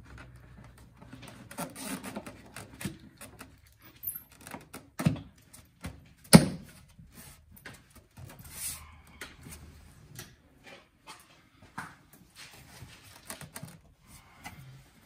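Hands refitting plastic engine air-filter housing parts and clips: a run of irregular clicks, rattles and knocks, the sharpest knocks about five and six and a half seconds in.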